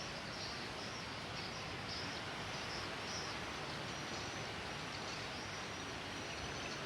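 Steady rain falling as an even hiss. Over it, small creatures make short high chirping calls again and again, and a thin high whine holds for a few seconds in the middle.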